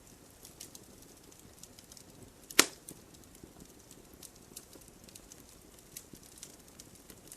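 Wood campfire crackling: scattered small snaps of burning firewood, with one loud sharp pop about two and a half seconds in.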